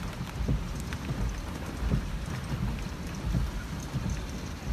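Heavy rain on a vehicle cab over the low rumble of the running vehicle, with irregular low knocks from a loose seatbelt banging.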